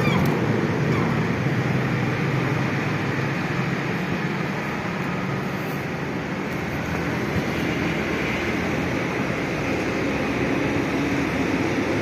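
Steady vehicle noise: a low, even rumble with a hiss over it and no distinct events.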